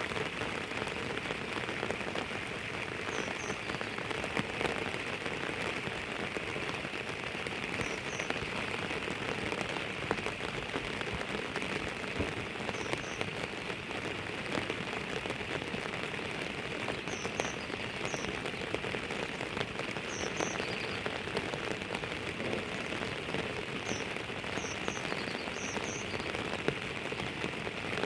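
Steady rain falling, an even hiss dotted with fine drop ticks. Short high chirps, often in pairs, sound faintly every few seconds.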